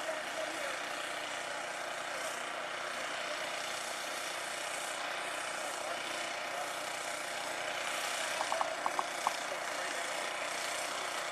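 Snow blower engine running steadily at a distance. About eight and a half seconds in comes a quick run of five short, high chirps.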